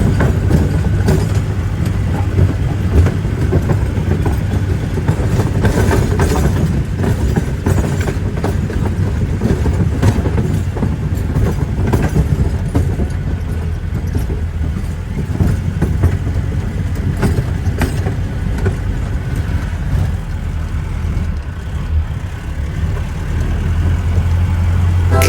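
Jeep engine running with a steady low drone while the vehicle rattles and knocks over a rough, unpaved mountain road.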